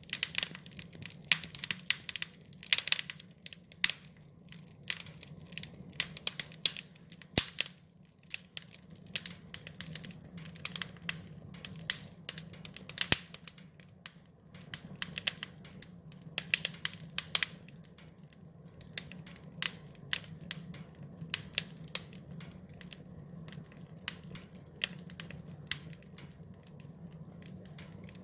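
Wood fire crackling: irregular sharp pops and snaps, some much louder than the rest, over a steady low rumble.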